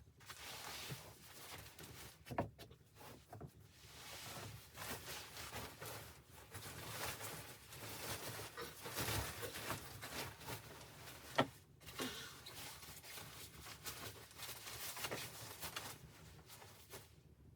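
Close rustling and handling noises, with scattered light knocks; the sharpest come about two seconds in and near eleven seconds in.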